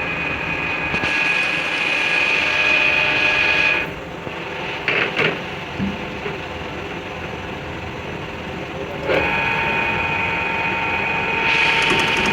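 A workshop power tool running with a steady high whine, which drops away about four seconds in and comes back about nine seconds in; a few short knocks sound in the quieter stretch between.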